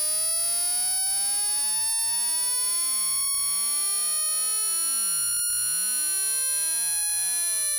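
Synthesized speaker-test sine tone sweeping slowly upward in pitch, over a steady high-pitched whistle.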